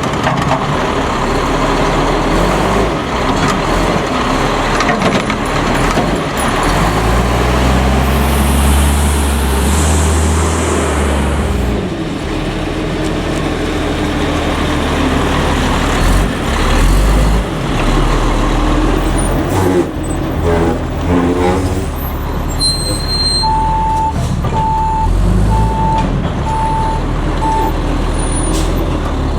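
Autocar front-load garbage truck's diesel engine running and revving up and down, with a cluster of knocks about twenty seconds in, then the reverse alarm beeping five times near the end.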